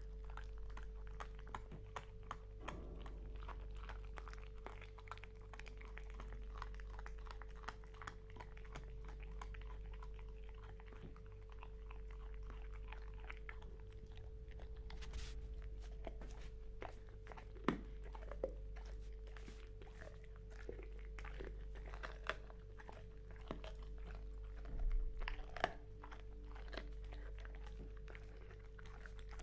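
Dog chewing and gnawing, a long run of small crunching clicks with a few sharper louder cracks in the second half, over a steady electrical hum.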